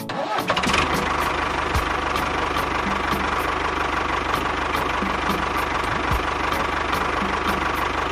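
A small motor running steadily, with a thin whine and a light tick about two or three times a second, starting abruptly.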